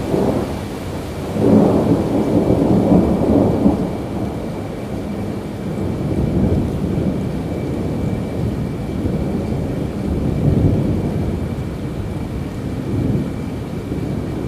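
Thunder rolling over steady rainfall, the loudest rumble from about a second and a half to four seconds in, followed by weaker rolls.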